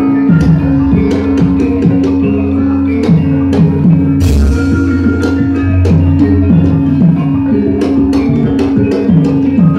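Javanese gamelan music for wayang, played loud, with a repeating drum pattern under sustained low tones and regular sharp strikes; a louder crash about four seconds in.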